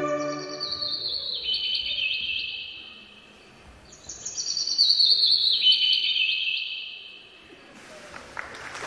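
Recorded birdsong: two phrases of bright chirping, each a quick cascade of notes falling in pitch and lasting about three seconds, with a short pause between them.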